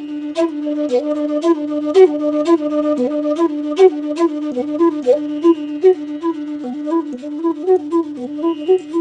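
Bansuri (North Indian bamboo flute) playing a slow raga phrase: the melody keeps returning to one held low note, decorated with quick flicked grace notes above it.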